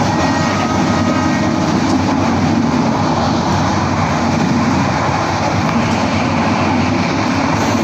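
Passenger train running at speed, heard from aboard: a steady, loud rush of wheels on rail and passing air.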